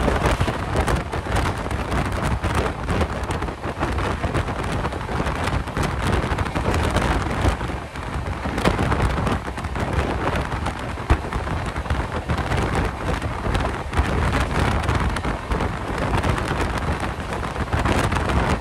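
A moving passenger train heard from an open coach door: a steady rush of wind over the microphone and a low rumble from the wheels on the rails, with frequent short clatters.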